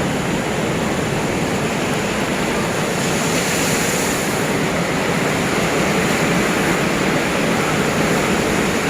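Heavy ocean surf breaking on the beach: a loud, steady wash of big waves with no let-up.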